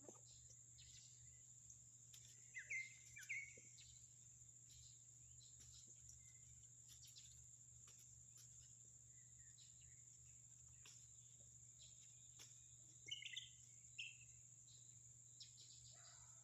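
Faint outdoor ambience: a steady high-pitched insect drone, with a bird giving short bursts of chirps a few seconds in and again near the end.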